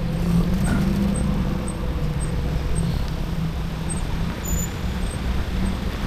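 Steady low rumble of wind and road noise from riding an e-bike along a street, with traffic around.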